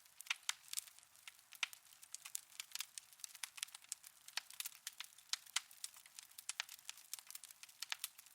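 Wood fire in a fireplace crackling: a dense, irregular stream of sharp pops and snaps with no low rumble beneath.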